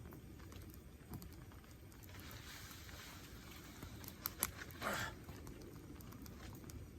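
Wood campfire crackling with scattered small pops, two sharper pops about four seconds in and a brief louder burst just before five seconds.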